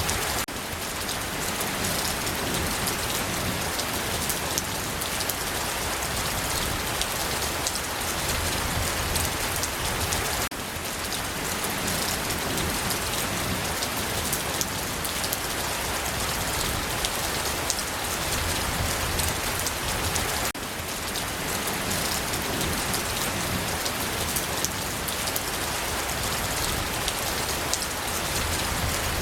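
Steady rain falling, a dense even patter of many drops, with a brief dip in level about every ten seconds where the recording loops.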